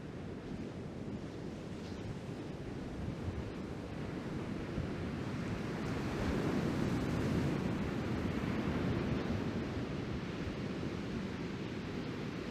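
Ocean surf breaking and washing in a steady rumble, swelling louder about halfway through, with wind buffeting the microphone.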